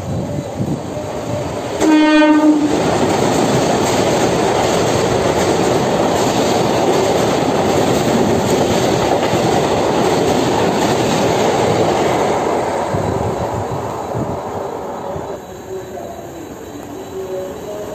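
Central Railway EMU local train sounding one short horn blast about two seconds in, then running past at speed with loud wheel and rail noise that dies away after about twelve seconds.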